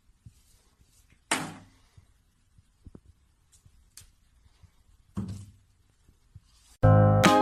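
Two short, sudden noises about four seconds apart, each fading within half a second, then music cuts in loudly near the end.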